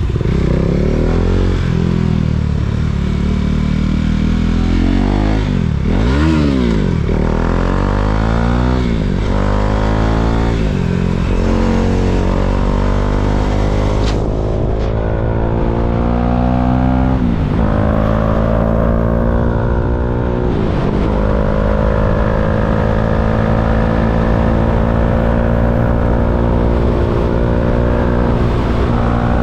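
KTM Duke 390's single-cylinder engine being ridden in stop-and-go traffic: quick revs rising and falling a few seconds in, then rising pulls through the gears, settling into a steady engine note near the end.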